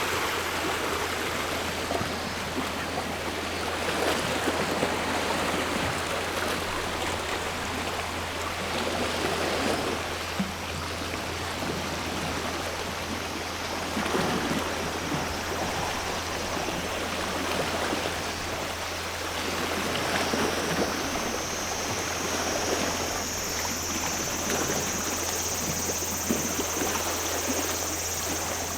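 Sea water washing and splashing at the shore in repeated swells, about every five or six seconds. From about twenty seconds in, a steady high buzz of cicadas joins.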